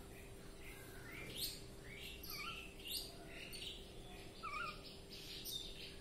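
A bird calling: a string of short chirps and whistles, with three sharp upward-sweeping notes about a second and a half apart and lower warbled notes between them, over a faint steady hum.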